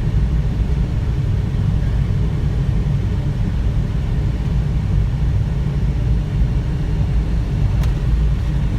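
Steady low rumble of airflow around a glider in flight, heard from inside the cockpit, with a faint click near the end.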